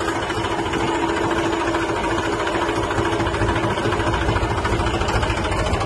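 Tractor engine running steadily with an even, rapid firing pulse, driving a PTO water pump.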